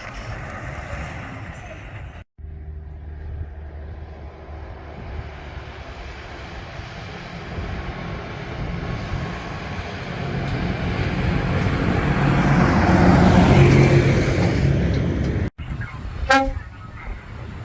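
A lorry's diesel engine running as the truck drives up and past, growing louder to a peak near the middle of the clip and then falling. Near the end comes a short horn toot.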